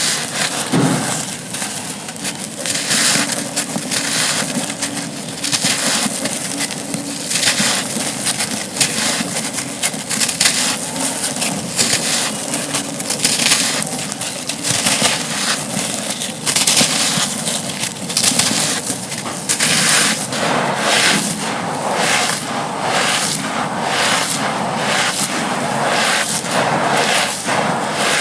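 Dry, gritty slabs being crumbled, a dense run of crisp crackling crunches; from about twenty seconds in the crunches come in a more regular rhythm of about two a second.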